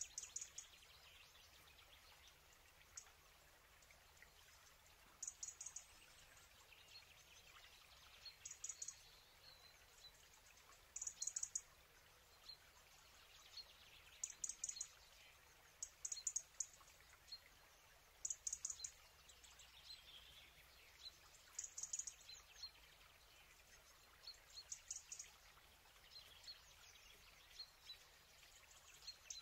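Faint bird chirping over quiet room tone: short clusters of high, rapid chirps about every two to three seconds, with scattered single peeps between them.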